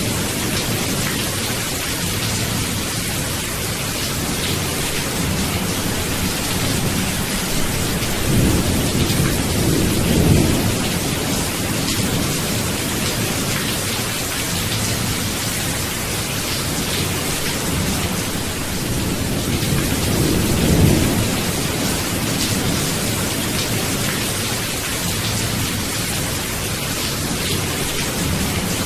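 Steady heavy rain, with two low rumbles of thunder, one about a third of the way in and another about two-thirds through.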